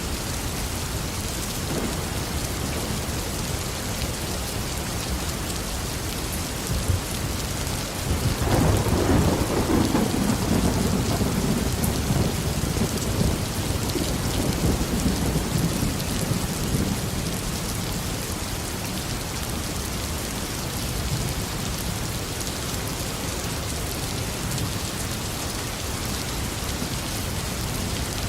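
Steady tropical downpour on a garden, with a roll of thunder that breaks in suddenly about eight seconds in and rumbles for several seconds before fading back under the rain.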